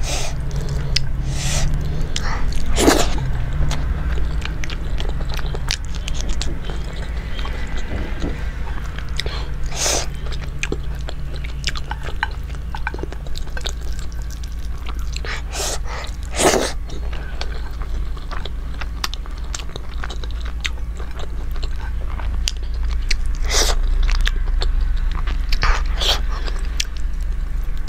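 Close-miked chewing of rice and curry eaten by hand, with sharp clicks now and then, over a steady low hum.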